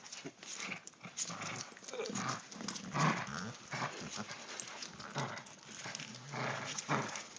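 Yorkshire terrier playing with a toy, making a run of short, irregular dog noises.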